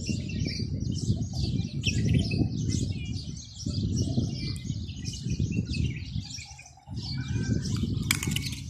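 Many birds chirping at once in a dense, unbroken chorus, over a low uneven rumble that drops away briefly about two-thirds of the way through.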